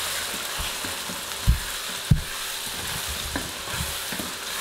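Onion-tomato masala sizzling in hot oil in a non-stick wok, stirred with a wooden spatula, a steady frying hiss. Two louder knocks come about a second and a half and two seconds in.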